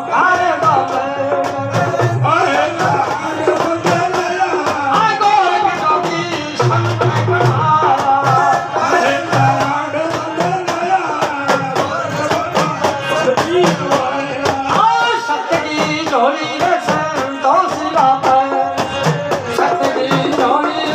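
Live Rajasthani folk singing by a male singer, accompanied by a hand drum and steady clicking percussion.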